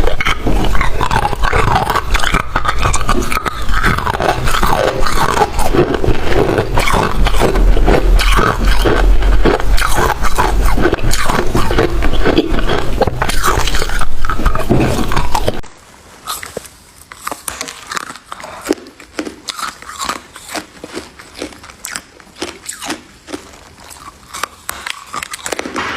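Close-up crunching and chewing of freezer frost ice: loud, dense, crackling crunches, which drop suddenly about 15 seconds in to quieter, scattered crunches.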